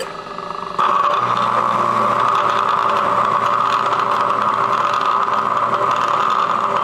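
A metalworking machine running steadily with a loud, even mechanical noise that has a strong hum in it. It gets louder suddenly about a second in and then holds steady.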